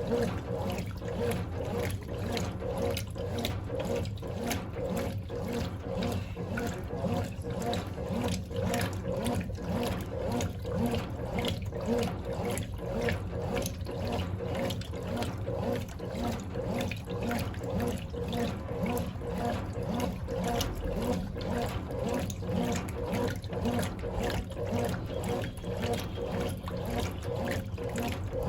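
Brastemp BWC10 top-loading washing machine running with water pouring and sloshing in the tub, pulsing about twice a second.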